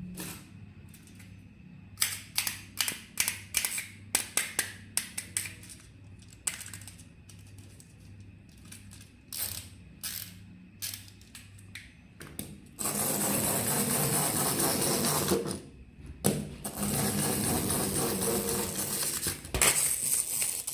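Hands handling a plastic toy and its packaging: a quick run of sharp plastic clicks and snaps, then scattered clicks, then two long stretches of loud scratchy rustling that stop suddenly.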